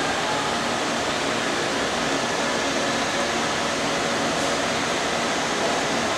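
Monarch 10EE tool room lathe with an AC inverter drive running with the threading feed engaged: a steady, even whir with a few faint steady tones, smooth and quiet.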